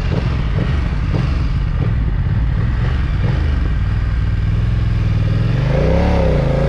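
BMW F900R's parallel-twin engine running with a steady low drone; near the end the revs rise and fall back.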